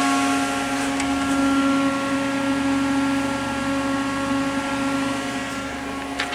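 Steady electrical hum with several high whining tones over a fan-like hiss from the powered-up Haas VF-2YT machining center's cabinet. A faint click comes about a second in and another near the end.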